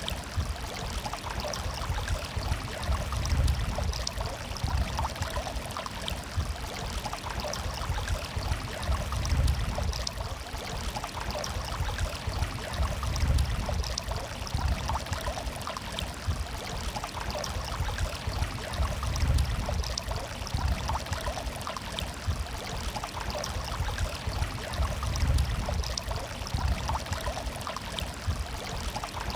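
Running water murmuring and gurgling without a break, over a low rumble that swells and fades every few seconds.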